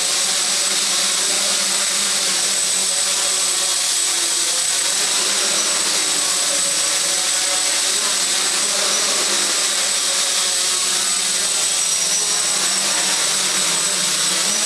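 Quadcopter's Aeolian motors and propellers running steadily, with a thin, constant high whine over the propeller noise. High-pitched noises like this are what the owner takes as a sign of the motors' bearings being in bad condition.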